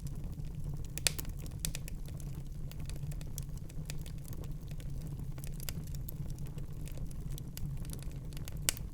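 Wood fire crackling in a fireplace: irregular sharp pops and snaps over a steady low rumble of the flames, with the loudest pops about a second in and near the end.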